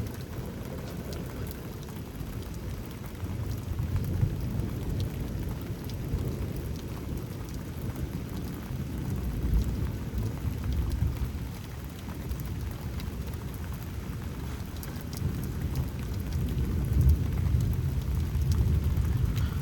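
Steady rain falling, with low rolling thunder rumbling in the background that swells and fades several times.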